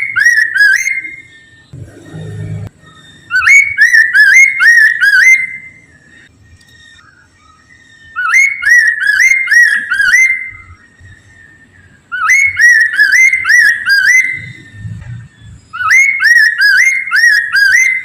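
Poksay mandarin (Chinese hwamei) singing loud whistled phrases: bursts of four or five quick rising notes, each burst about two seconds long and repeated every few seconds, five times. A brief low rumble comes about two seconds in.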